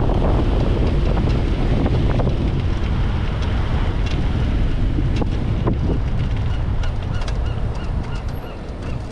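Wind rumbling over the microphone of a moving electric motorbike, easing near the end. Toward the end a quick run of short repeated high calls comes through, with a few sharp ticks.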